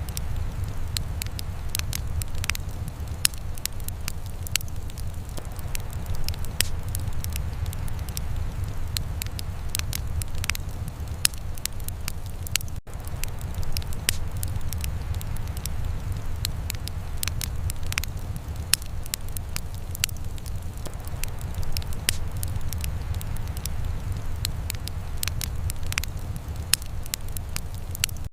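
Wood fire in a fireplace crackling, with frequent sharp, irregular pops over a steady low rumble. A split-second dropout about halfway through.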